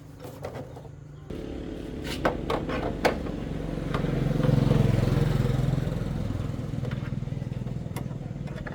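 Small motorcycle engine running. About a second in it gets louder, swells to its loudest around the middle, then settles to a steady run, with a couple of sharp clicks along the way.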